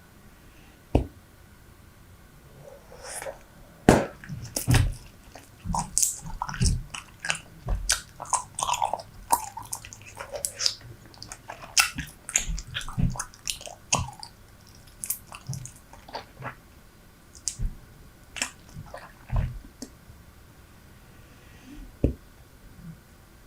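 Close-miked chewing of Super Bubble bubble gum: a run of wet smacks and clicks, thick and fast from about three seconds in to about fifteen, then only now and then.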